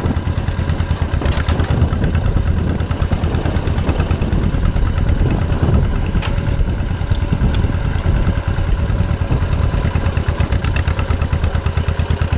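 Small farm tractor's engine running steadily at a rapid, even beat while the tractor is driven.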